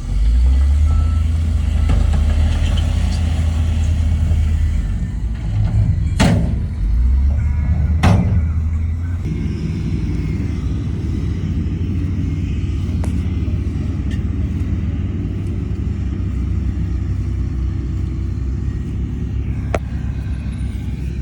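Heavy earthmoving machine's diesel engine running under load, heavier for the first few seconds and again briefly mid-way, then settling to a steady run. Two sharp metallic clanks about six and eight seconds in, and a smaller one near the end.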